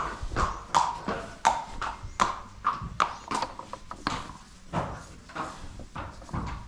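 Horse's hooves clip-clopping at a walk: a regular run of sharp knocks, about two to three a second.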